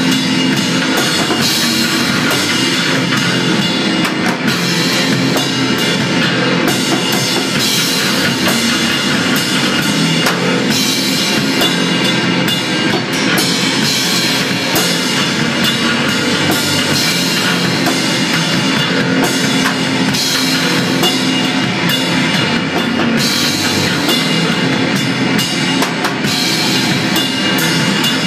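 A rock band playing a loud, dense psychedelic noise jam: drum kit with cymbals pounding continuously under distorted guitar, with no letup.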